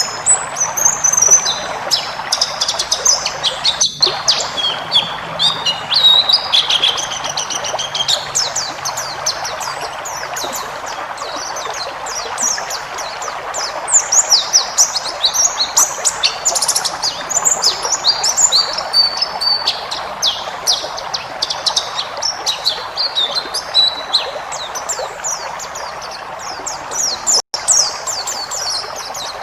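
White-eye (pleci) singing a fast, unbroken song of high chirps and trills packed with varied phrases, over a steady hiss. The sound drops out briefly twice.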